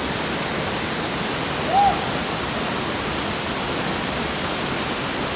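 Waterfall pouring: a steady, even rush of falling water, with one brief pitched sound rising and falling about two seconds in.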